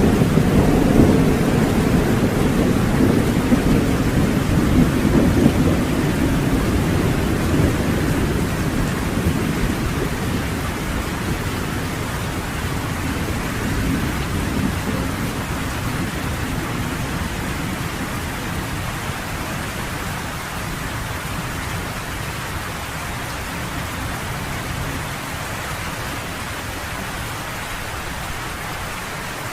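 Steady heavy rain with a rumble of thunder that is strongest at the start and slowly rolls away over the first ten seconds or so, leaving the even hiss of the rain.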